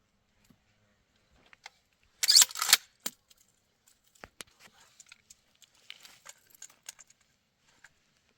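A short, loud rustling crunch about two seconds in, followed by scattered light clicks and soft rustles.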